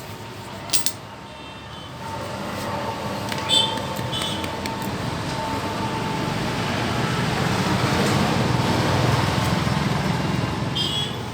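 A motor vehicle's engine running: a rumbling noise that swells over several seconds to a peak and then eases slightly off. There is a short click just under a second in.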